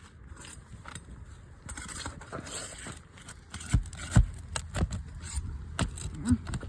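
Scraping, then several sharp knocks, from a roofing tool prying at the nails under old, brittle asphalt shingles.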